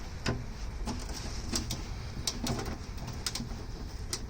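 A socket wrench on the oil drain plug of a Ford E350 Super Duty making a handful of sharp, irregularly spaced clicks as the plug is worked loose, over a low steady rumble.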